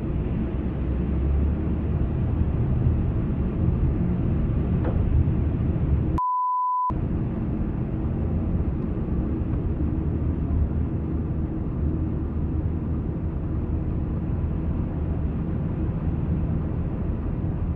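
Strong wind blowing across the microphone, a steady low noise. About six seconds in, the sound is cut out for under a second and replaced by a single steady 1 kHz censor bleep.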